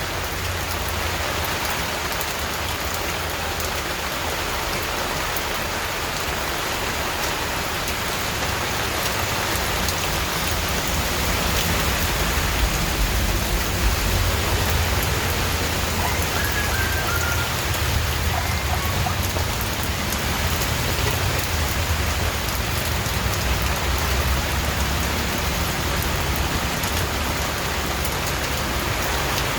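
Steady rain falling, an even, unbroken hiss of drops with a low rumble underneath.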